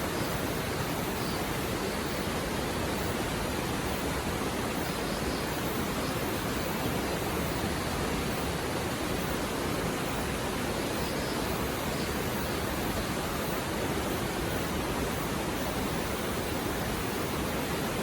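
A shallow mountain river running over rocks, with a steady, even rush of water.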